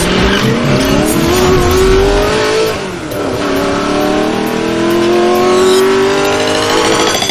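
Car engine accelerating hard: the pitch climbs, drops about three seconds in at a gear change, then climbs again through the next gear before cutting off.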